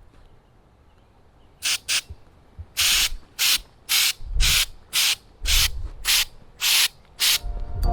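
Aerosol can of truck bed coating spraying in short repeated bursts: about a dozen hisses, each lasting a fraction of a second, starting a little under two seconds in.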